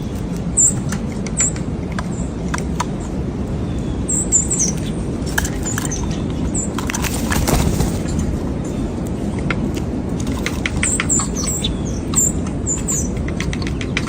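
Wing flaps and sharp taps of blue jays scuffling at a platform bird feeder, with a louder flurry about halfway through. Many brief high-pitched bird chirps are scattered throughout over a steady low background rumble.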